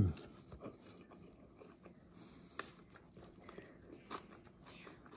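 A person chewing a mouthful of cheeseburger with the mouth closed: faint, irregular smacks and crunches, with one sharper click about two and a half seconds in. It opens with a short falling "mm" hum.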